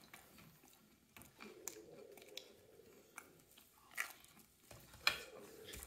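Faint chewing and biting of a crisp-crusted margherita pizza slice: scattered soft crunches and mouth clicks, the loudest about four and five seconds in.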